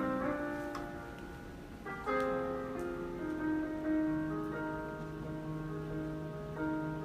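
Slow, soft piano music, sustained chords changing every second or two.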